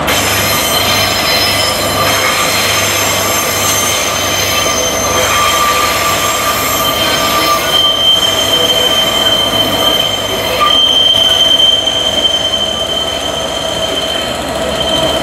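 Locomotive-hauled passenger train rolling slowly through the platform, its wheels squealing on the rails in several high steady tones that change pitch about halfway through. The diesel locomotive's engine runs underneath.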